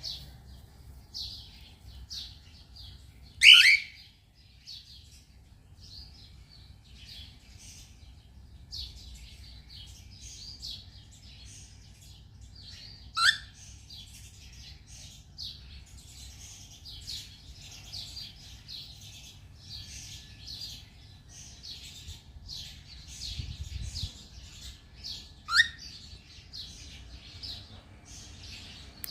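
Cockatiel chirping outdoors: a steady run of short, high chirps and tweets, broken three times by a much louder sweeping call, about three and a half seconds in, near the middle and a few seconds before the end.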